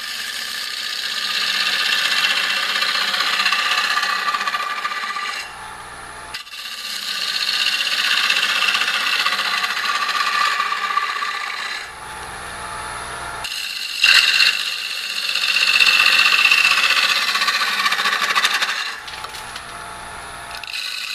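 A bowl gouge cutting dry hard maple on a Powermatic 3520 wood lathe, taking heavy cuts inside a spinning bowl. There are three long cuts of about five seconds each, with short pauses between them in which only the lathe's hum is left. A sharp knock opens the third cut.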